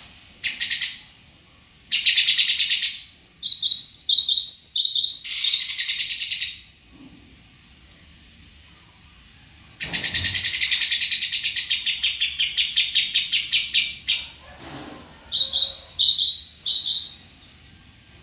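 Songbird singing in separate phrases of rapid high chirps, with a long trill of fast repeated notes lasting about four seconds midway.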